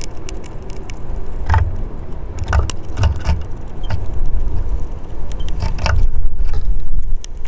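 Wind buffeting the microphone in gusty low rumbles, with sharp clicks and taps scattered through.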